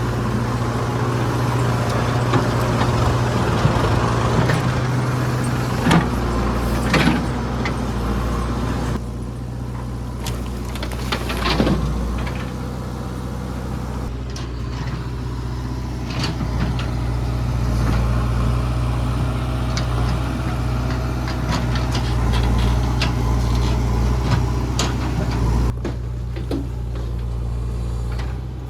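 Heavy diesel engine running steadily, with scattered knocks and clanks from time to time.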